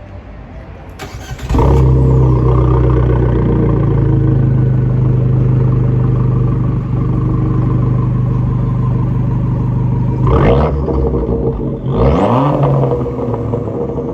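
Abarth 595/695's 1.4-litre turbocharged four-cylinder through an HKS VIITS valved aftermarket exhaust: the engine starts about a second and a half in and settles into a steady idle. Two short revs follow, near the end, each rising and falling back to idle.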